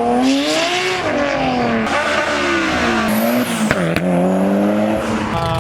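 A car engine revving, its pitch climbing and falling smoothly several times, with a sharp crack about three and a half seconds in.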